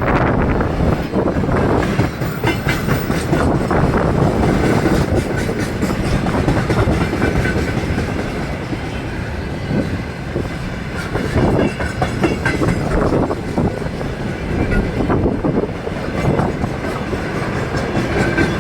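Freight train of tank cars rolling past, wheels clattering over the rail joints in a steady run of clicks.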